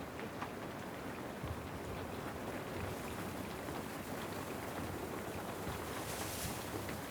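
Steady rain falling, an even hiss with scattered small ticks.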